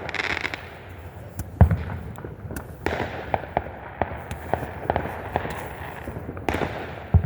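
Fireworks going off: a run of scattered pops and crackles, with two much louder bangs, one about a second and a half in and one at the very end.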